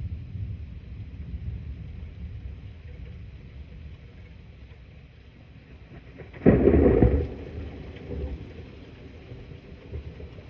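Thunder: a low rumble fading over the first few seconds, then a sudden sharp clap about six and a half seconds in, lasting under a second, with a short rumbling tail after it.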